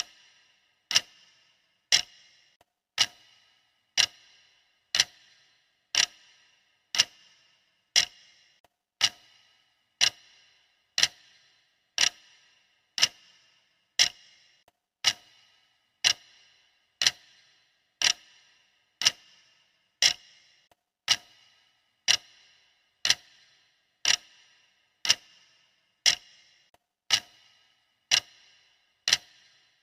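Clock ticking steadily, one sharp tick each second, each with a short fading ring.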